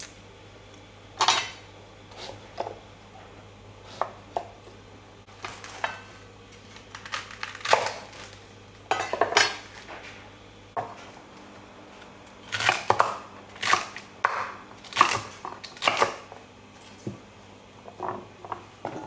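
Kitchen clatter of knife, chopping board and pot while vegetables for bone broth are cut up and put in: irregular sharp knocks and clinks, some ringing briefly, spaced a second or so apart.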